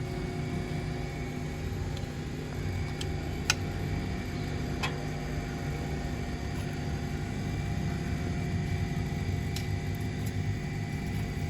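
Steady mechanical hum with low, even tones, broken by a sharp click about three and a half seconds in and a lighter one just over a second later.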